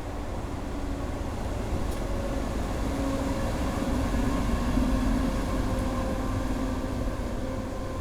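Class 6400 diesel locomotive running under power as it passes, a low rumble with a droning engine note that grows to its loudest about halfway through, then eases off.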